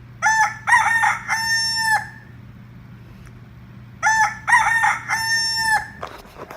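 A rooster crowing cock-a-doodle-doo twice, about four seconds apart. Each crow has a few short notes and a long held last note, and the two are identical, so it is a repeated recorded sound effect. A faint steady low hum runs underneath.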